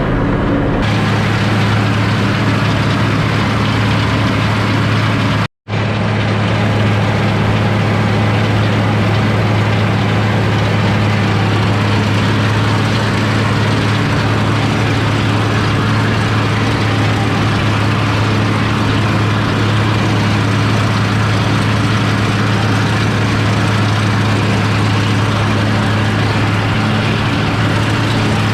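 International 1086 tractor's six-cylinder turbo diesel running steadily at a constant speed while cutting hay with a New Holland mower-conditioner. The sound drops out completely for a split second about five and a half seconds in.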